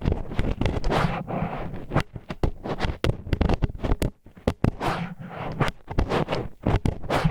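Disposable wooden chopsticks scraping and rubbing against the ear wall of an ear-shaped ASMR microphone: an irregular run of gritty scratches and small clicks, with a brief pause about four seconds in.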